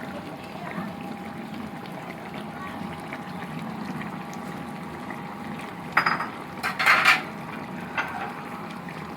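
Pot of chicken kaldereta simmering in its sauce: a steady bubbling hiss. About six seconds in comes a short run of sharp clatters, with a smaller one near the end.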